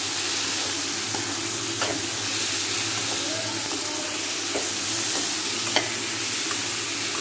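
Freshly added chopped tomatoes with fried onions and bitter gourd peel sizzling steadily in a kadhai, stirred with a metal slotted spoon. The spoon clicks sharply against the pan a few times, loudest near the end.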